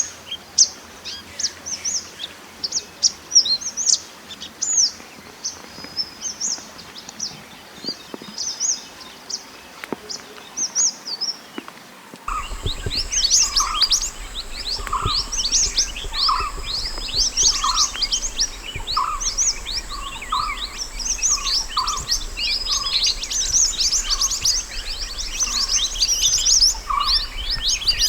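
Small songbirds chirping and trilling rapidly in high, sharp notes, sold as wild 'mantenan gunung' song for tutoring cage birds. About halfway through the recording changes: the chirping grows denser, a lower note repeats about once a second, and a faint steady hum appears underneath.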